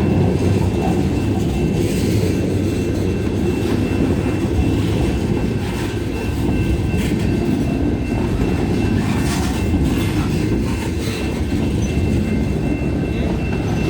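Freight train of garbage cars rolling along the rails: a steady low rumble with scattered clicks from the wheels and a faint steady high whine.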